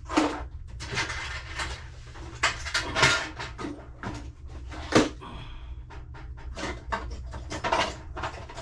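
Hand tools clattering and knocking as someone rummages through a packed tool box for a 1.5 mm hex wrench, with the sharpest knock about five seconds in. A steady low hum runs underneath.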